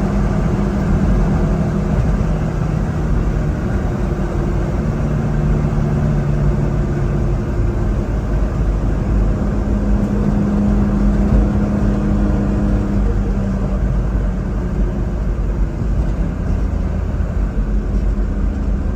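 1995 Mitsubishi Minicab kei truck engine running while driving, over steady road rumble, its pitch stepping up and down as the revs change.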